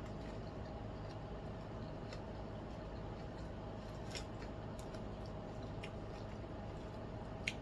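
A person chewing and eating, with a few faint crisp clicks and crunches over a steady low room hum.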